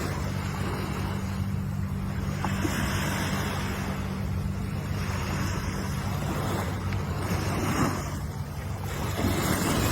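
Ocean waves washing in, a steady rush of surf that swells about three times. A steady low hum runs underneath.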